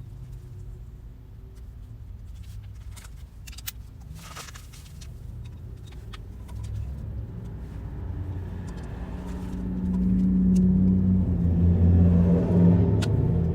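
Honda Grom 125 motorcycle engine running with a low rumble that grows louder from about seven seconds in and is loudest near the end.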